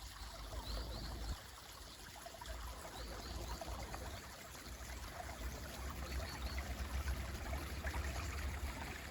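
Mountain stream running steadily, with a few faint, short bird chirps now and then.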